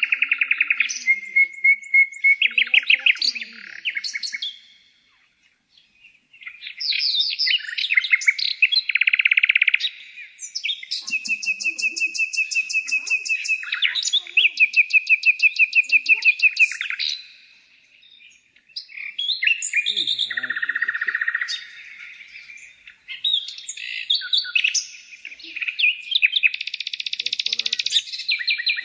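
A bird singing in long runs of fast repeated chirps and trills, with two short pauses, about five and about eighteen seconds in.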